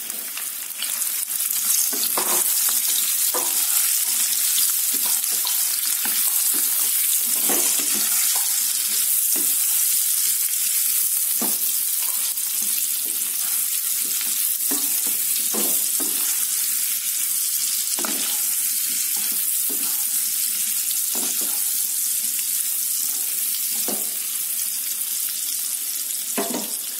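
Boiled potato pieces frying in hot mustard oil in a kadhai: a steady sizzle that swells about a second in, with short scrapes and knocks of a spatula as the potatoes are stirred now and then.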